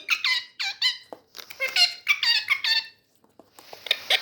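Agitated pet parrot giving rapid runs of short, high squawks, each sweeping down in pitch, with a brief pause about three seconds in.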